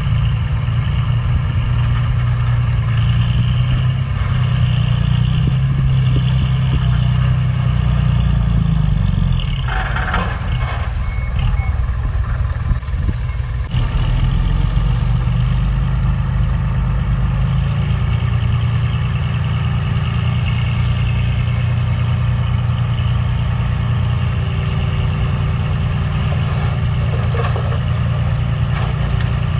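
Heavy diesel earthmoving machinery, a dump truck and a bulldozer, running steadily with a deep engine hum, and a reversing alarm sounding over it. About ten seconds in there is a brief noisy rush.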